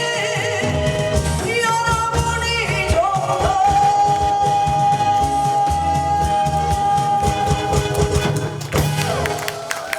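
A singer performing a song over an amplified backing track with a steady drum beat, ending on one long held note.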